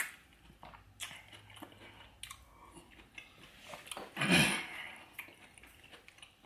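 Close-miked chewing of seafood-boil food: small wet mouth and bite sounds, with a sharp click at the start and a louder half-second bite about four seconds in.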